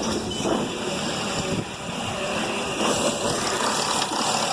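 Mercedes E320 CDI diesel engine just started and running steadily with its EGR valve unplugged. It is not running great because the car is in limp mode.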